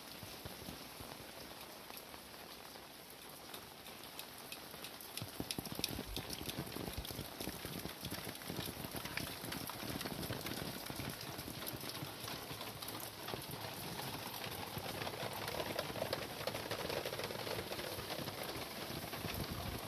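Steady rain falling, with many separate drops ticking on surfaces close by. It grows louder about five seconds in.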